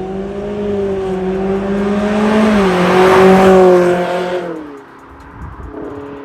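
Toyota Corolla Altis E210's 2ZR-FE 1.8-litre four-cylinder through an MS-R valved cat-back exhaust, the exhaust note building to its loudest about three seconds in. After that the pitch falls away and the sound drops off, with a shorter falling note near the end.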